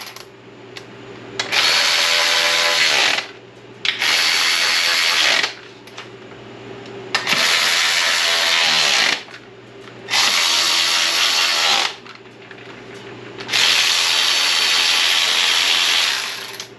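Handheld power drill run in five bursts of about one and a half to three seconds each, its motor whining down at the end of some runs.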